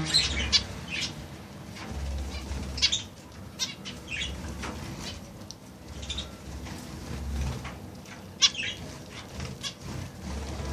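Birds fluttering their wings and giving short, sharp chirps, scattered irregularly about once or twice a second, over an intermittent low rumble.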